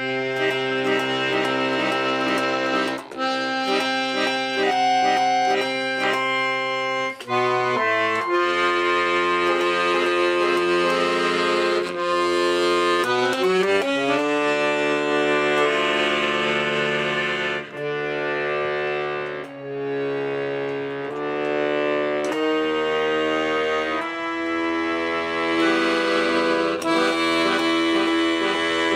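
Accordion playing slow, improvised held chords over sustained bass notes, the chords changing every few seconds.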